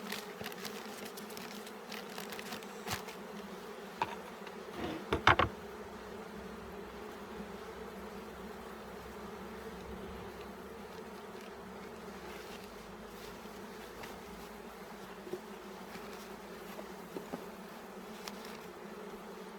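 Honeybee colony buzzing steadily in a low hum. A few sharp knocks about four to five seconds in.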